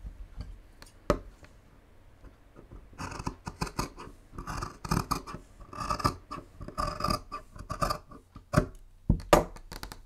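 Large fabric shears cutting through quilted cotton fabric, a run of crisp snips for several seconds in the middle. A few sharp clicks come near the end.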